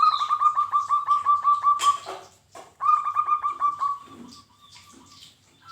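Zebra dove (perkutut) calling: two fast runs of short repeated notes, about five a second, with the second run fading out. A sharp click comes near the end of the first run.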